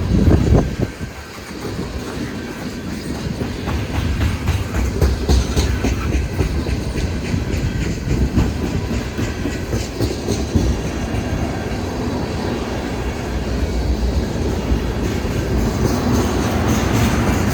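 Freight train cars rolling past, their wheels clacking over the rail joints above a steady low rumble, with a loud bang right at the start.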